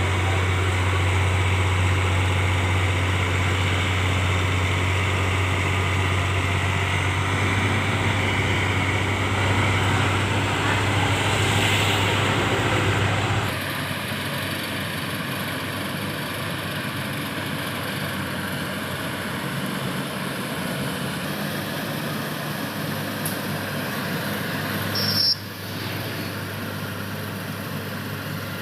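Heavy farm diesel engine running steadily with a strong low hum. About halfway through the sound drops suddenly to a quieter engine note, and a few seconds before the end there is a brief louder burst.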